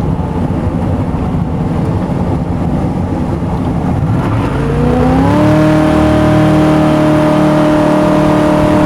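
A home-built jet boat's 350 V8 running at low speed with a rough rumble, then revving up about halfway through and holding a steady, higher pitch.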